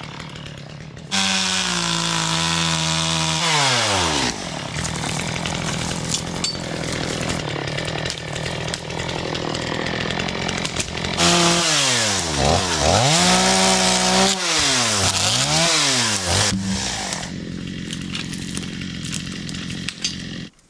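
Chainsaw running at full throttle, its engine pitch falling away as the throttle is released. It then runs hard again, the pitch dipping and climbing several times as it revs and loads, before easing back and cutting off at the end.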